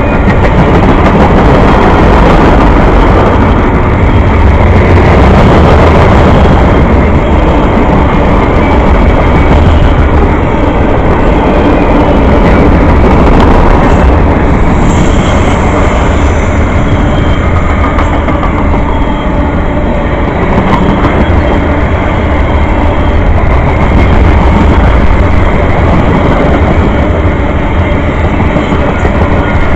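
Train rolling past at close range: a loud, steady rumble and rush of wheels on rail, with a brief high squeal about halfway through.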